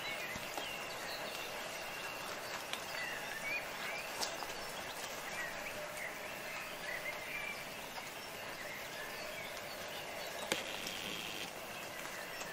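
Steady hiss of light rain in a garden, with faint bird chirps in the background and a couple of sharp single taps of drips.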